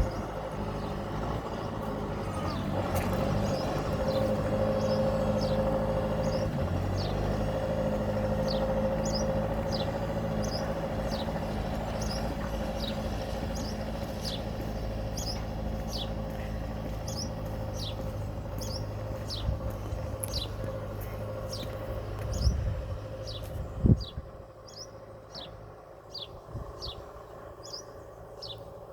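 Tractor engine running at a steady speed, with a bird giving short falling chirps about once a second over it. About 24 seconds in there is a sharp knock, and the engine sound drops away after it while the chirping goes on.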